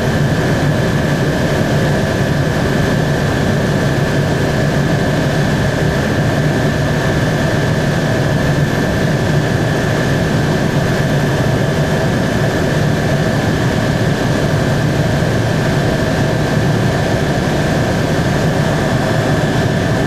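Helicopter in flight heard from inside the cabin: a steady drone with a steady high whine above it.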